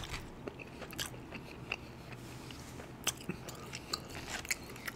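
A person chewing a mouthful of seaweed-wrapped rice close to the microphone: wet chewing with sharp little mouth clicks and smacks at irregular intervals.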